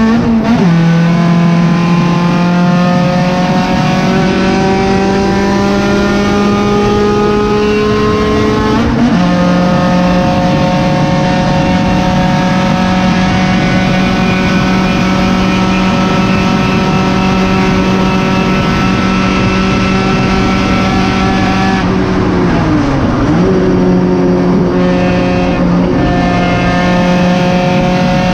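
Cabin sound of a 1991 Honda Civic EF race car's D16 four-cylinder engine running hard at high revs. Its pitch drops suddenly near the start and again about nine seconds in, then holds nearly steady on a long pull. There is a brief dip in revs about 23 seconds in before it picks up again.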